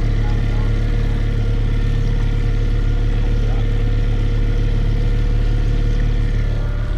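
9.9 hp Mercury outboard kicker motor running at a steady speed, pushing a boat loaded with about 5,000 pounds.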